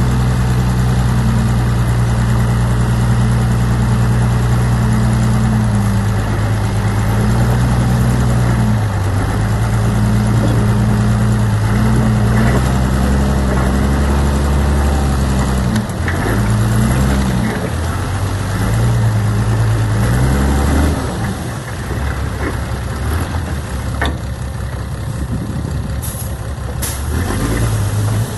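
Heavy diesel earthmoving machinery running under steady load. The engine's pitch drops about nine seconds in, swells again, and wavers between sixteen and twenty-one seconds. It then fades back, with a few sharp clanks near the end.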